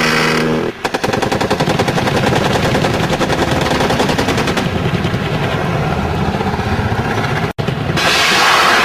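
Long sustained run of rapid automatic gunfire, many shots a second at an even rate, starting about a second in after a short steady hum. It cuts out briefly near the end and gives way to a loud rushing noise.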